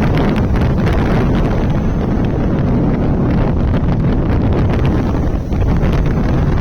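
Heavy wind noise buffeting the microphone of a Bajaj Pulsar 150 motorcycle moving at highway speed, with the bike's running noise underneath. It is steady and loud, with a brief dip about five and a half seconds in.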